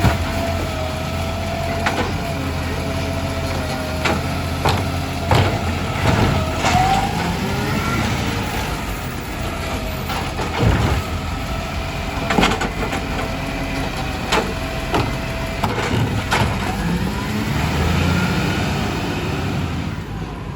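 Garbage truck running with a steady engine hum and a held hydraulic whine, with repeated clunks, knocks and crunching as waste is handled and compacted.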